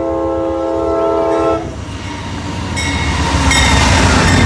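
Amtrak train's horn sounding a steady chord of several tones that cuts off about a second and a half in. The train's rumble then grows louder as it pulls in, and a high metallic squeal sets in near the end.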